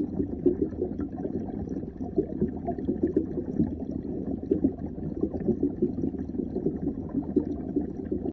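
Muffled underwater water noise picked up by a submerged camera: a steady low bubbling hiss with a dense scatter of small crackles and pops.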